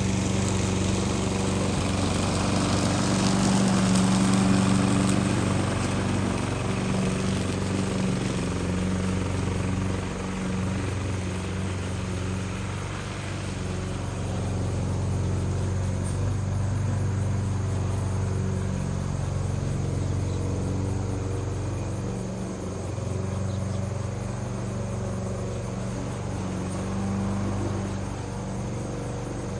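Grass cutter's small petrol engine running at a steady speed, with slight rises and falls in level.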